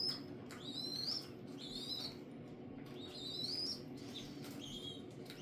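Hand-reared young bird begging for food: a string of high, upward-sliding chirps about once a second, one of them longer, over a steady low hum.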